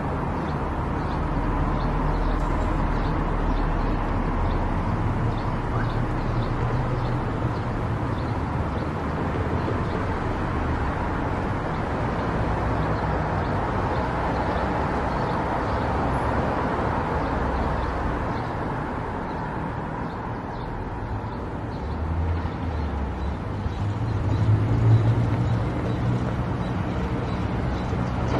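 A car driving along a road: steady engine and tyre noise with a low rumble, growing a little louder near the end.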